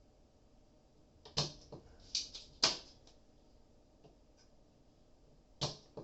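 A few sharp clicks and taps of a small circuit board and its plug-in relay being handled: a cluster of four in the first half and one more near the end.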